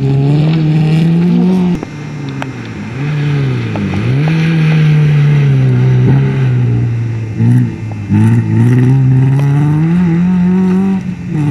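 Fiat Cinquecento rally car's engine revving hard, its pitch climbing and falling again and again as the driver lifts off and changes gear, with a sharp dip about four seconds in and another near the middle.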